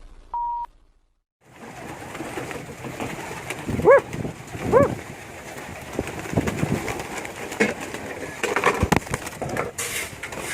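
Domestic pigeons cooing: two short, arched coos about four and five seconds in, over a steady background hiss, after a short electronic beep right at the start.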